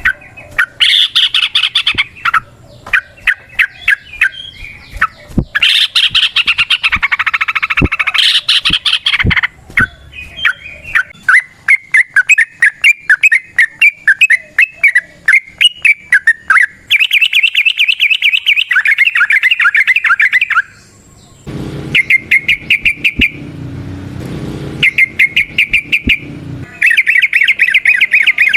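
Yellow-vented bulbuls (trucukan) calling in long, rapid trills of repeated notes, several runs overlapping, with short breaks between bursts. A low hazy noise sits under the calls for a few seconds near the end.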